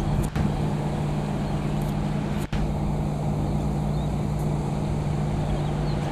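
Steady low mechanical hum with a constant low drone, cut by two brief dropouts.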